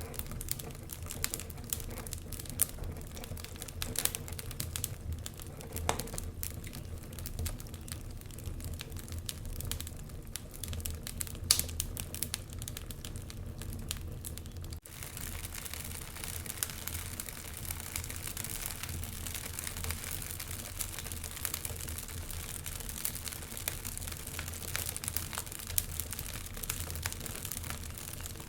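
Wood fire burning in a fireplace, crackling and popping irregularly over a low rumble of flames. About halfway the sound changes abruptly to a steadier hiss with finer crackles.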